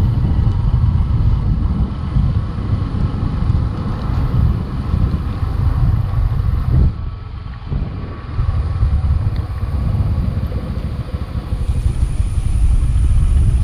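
Motorbike running on the move, with heavy wind rumble on the microphone; the noise eases briefly about seven seconds in.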